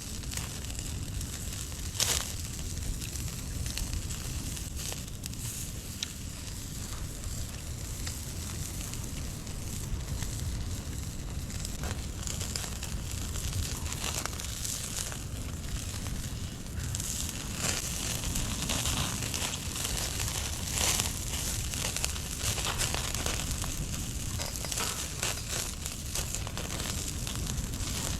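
Wood fire crackling, with scattered sharp pops over a steady low rumble; one loud snap comes about two seconds in, and the crackling gets busier in the second half.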